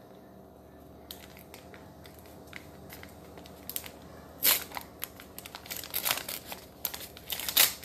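Paper wrapper crinkling and tearing as it is handled, in short irregular crackles, two of them louder, one midway and one near the end.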